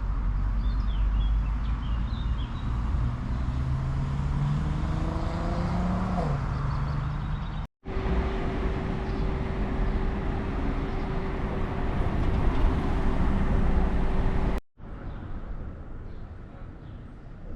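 Steady low rumble of a rail bike's wheels rolling along the rails, with a hum that rises in pitch over the first few seconds. It breaks off twice at sudden cuts, and the last few seconds are quieter.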